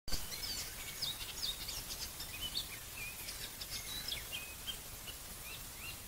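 Songbirds singing: a steady stream of short chirps and quick whistled notes, over a faint low background noise.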